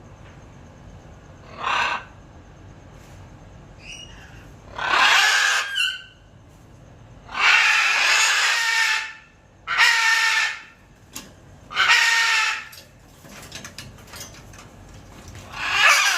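Scarlet macaws giving loud, harsh squawks, about six of them a second or two apart, some drawn out for over a second, with a few short whistled notes in between.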